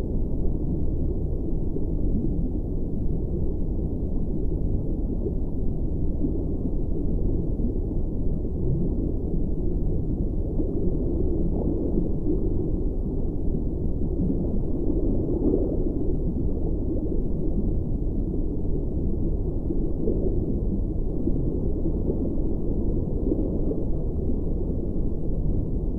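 Steady, muffled low rumbling drone with no clear pitch, swelling slightly around the middle.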